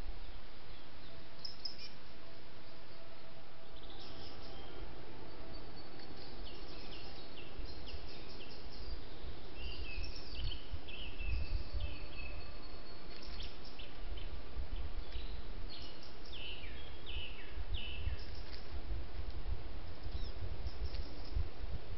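Small birds chirping and whistling repeatedly in woodland, heard through a cheap trail camera's microphone over a steady hiss and an uneven low rumble.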